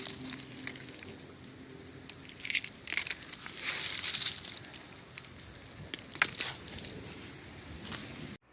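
Rain with hail striking, heard as a hiss of rain with irregular sharp ticks of hailstones hitting and short louder gusts of noise; it stops abruptly near the end.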